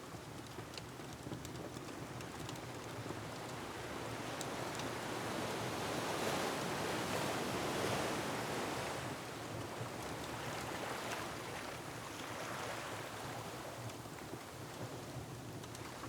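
Ocean surf: a wave swells in over several seconds, is loudest about halfway through, then ebbs back into a steady hiss. Light pops of a crackling wood fire sit under it, mostly in the first few seconds.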